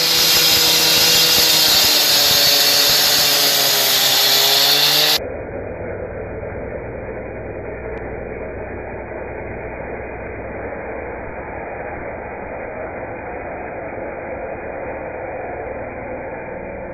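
A power tool's motor running hard, its pitch wavering slightly, cutting off abruptly about five seconds in. After that, a steady, muffled mechanical noise.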